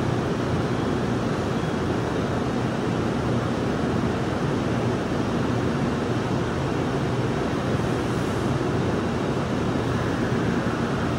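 Steady whooshing hum of an N700S shinkansen standing at the platform with its on-board equipment running, with a faint low tone under the noise.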